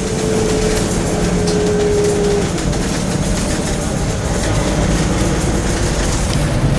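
Heavy truck engine running with steady low rumble. A single steady tone sounds over it for the first two and a half seconds, then stops.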